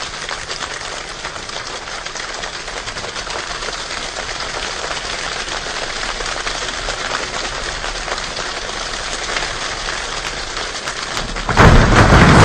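Rain falling and pattering steadily on a surface, a dense crackle of many small drop impacts that slowly grows louder. Near the end a sudden, much louder and deeper burst of noise breaks in.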